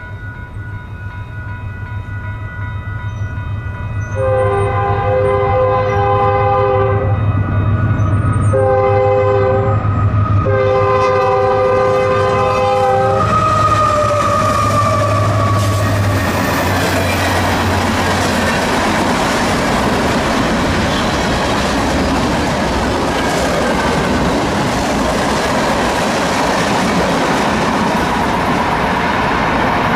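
A train passing at speed. The locomotive's air horn sounds a chord in a long, a short and a long blast, the pattern of a grade-crossing warning, and its pitch drops as the locomotive goes by. The wheels and cars then rush past with rail clatter to the end.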